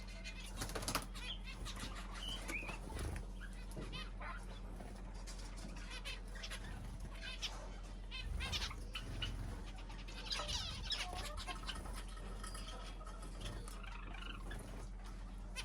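Small cage birds chirping and twittering at a feeder, with short clicks and flutters among the calls, over a steady low hum.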